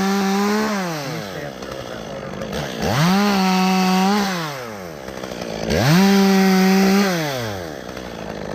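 Two-stroke chainsaw revved up to full throttle three times, each rev held steady for about a second and a half before dropping back toward idle.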